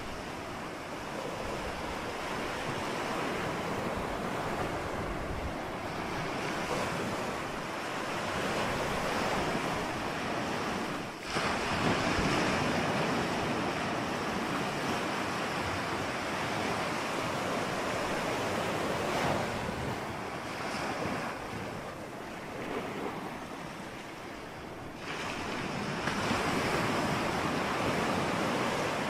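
Ocean surf washing continuously, swelling and easing as waves break, with a brief drop about eleven seconds in and a quieter lull before it builds again near the end.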